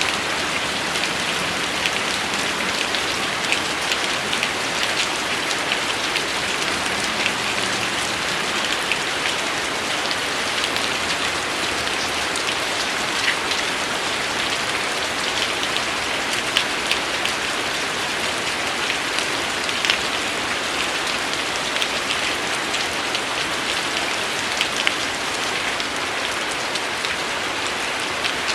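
Steady rain falling, a dense hiss with many individual drops ticking sharply on a hard surface.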